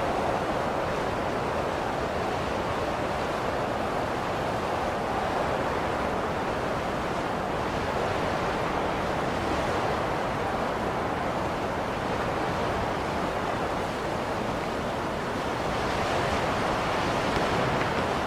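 Blizzard wind blowing steadily, an even rushing noise that swells slightly near the end.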